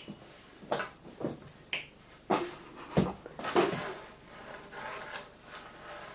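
Objects knocked off a table one after another: about seven clattering knocks and thuds over the first four seconds, then quieter rattling.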